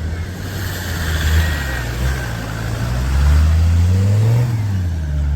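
Off-road 4x4 engine running, then revving up about three seconds in, its pitch climbing and then dropping back.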